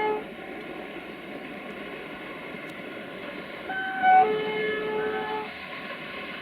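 Locomotive horn sounding two-note blasts over the steady running noise of a train. The end of one blast falls right at the start; about four seconds in comes a longer blast, a high note stepping down to a low one.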